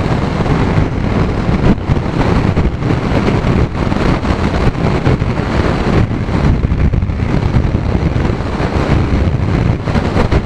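Strong wind rushing and buffeting over the microphone of a motorcycle at road speed, a loud, constantly fluctuating noise.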